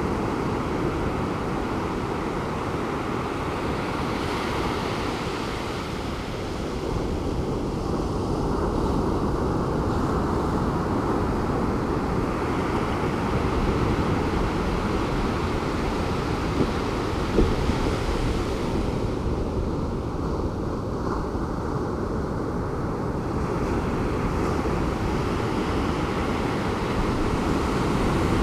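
Pacific Ocean surf breaking on a beach: a steady wash of noise that swells and ebbs every several seconds as waves come in.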